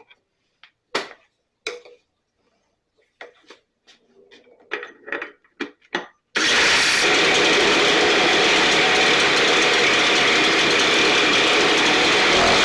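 A few scattered clicks and knocks of handling, then about six seconds in a STIHL BR 450 backpack blower's two-stroke engine and fan come in suddenly, running loud and steady.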